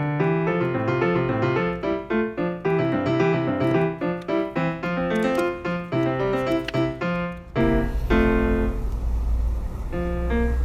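Background piano music: a quick, busy run of notes, thinning to slower chords about three-quarters of the way through as a low, steady rumble comes in underneath.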